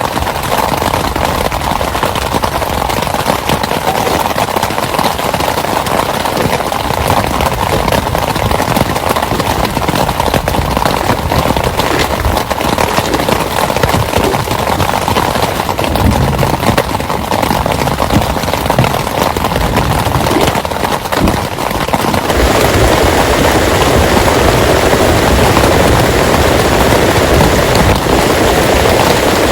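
Heavy rain falling steadily. A little over two-thirds of the way through, the rain changes suddenly to a louder, deeper rush.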